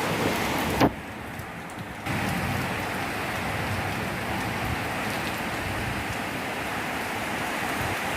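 Heavy storm rain pouring down, a steady dense hiss. There is a sharp click about a second in, and the sound drops for about a second before the heavy rain noise returns.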